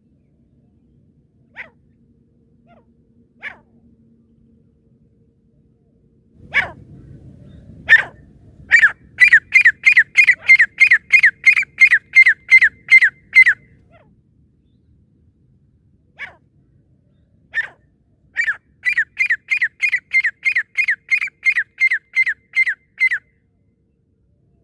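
Francolin (teetar) calling: a few single sharp notes, then a rapid run of identical notes at about four a second lasting several seconds, and after a pause two more single notes and a second run. A low rustling noise lies under the first run.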